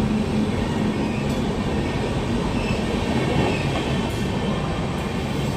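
Train running along the rails, making a steady, even running noise from the wheels and carriages.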